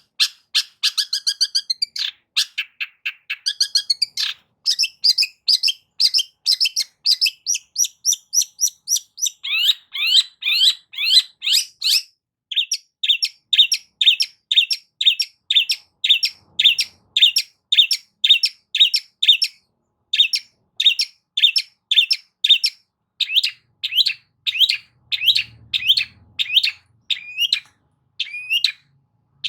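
Long-tailed shrike (cendet) singing: a fast run of sharp repeated notes, two to three a second. The bird switches between several note types every few seconds, with a quick trill near the start and a long series of rising notes in the middle.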